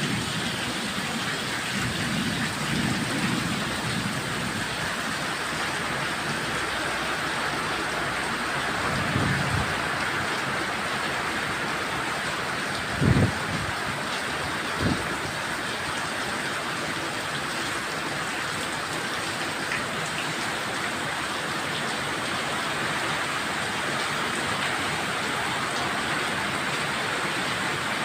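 Heavy rain pouring steadily in a rainstorm. A low rumble comes in the first few seconds and again around a third of the way through, and two brief low thumps come about halfway through.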